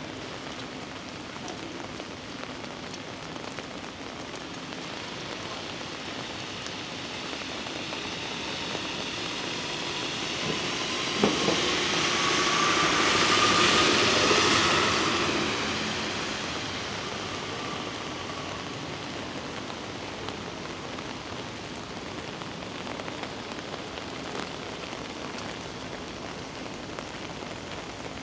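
Steady heavy rain, with a vehicle passing through it: its sound swells over several seconds to its loudest about halfway through, carrying a faint, gently rising whine and a single sharp knock just before the peak, then fades away.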